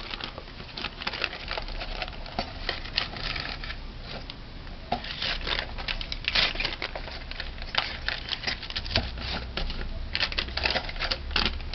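Paper rustling and crinkling as it is fitted glossy side up into a buttered cake pan, with many light, irregular clicks and taps.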